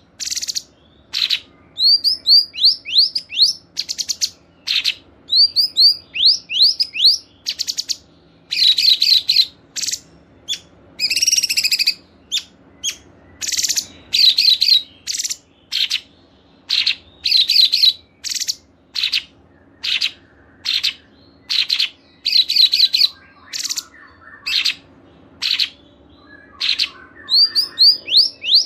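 Caged songbirds singing in short bursts of rapid, high chirps and trills, many as quick runs of falling notes, with short pauses between the phrases. This is a masteran training mix built from a combination of cungkok, cikris, canary, katem and lovebird song.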